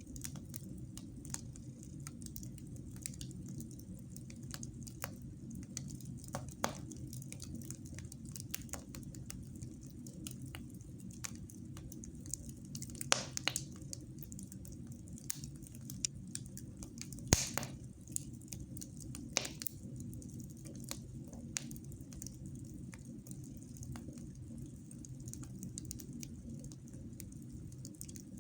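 Fire burning in a fireplace: a steady low rush with scattered crackles and sharp pops, the loudest about 13 and 17 seconds in.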